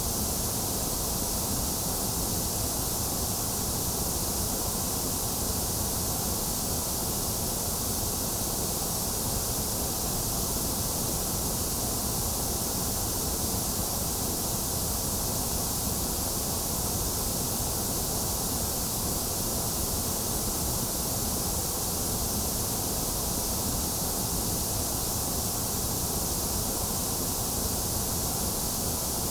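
Steady electronic white noise: an even, unbroken hiss with no changes, slightly hollow in the upper middle of the range.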